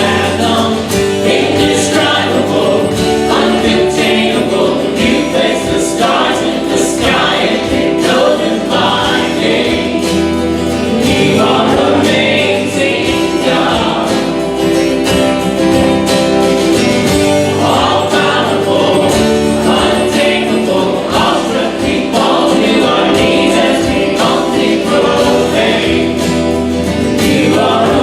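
Church congregation singing a worship song together, with instruments accompanying.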